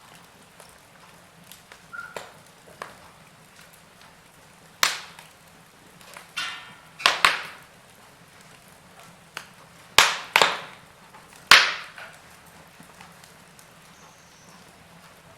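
Wood fire crackling as logs burn, with irregular small ticks and about five sharp, loud pops spread through the middle of the stretch, over a faint steady hiss.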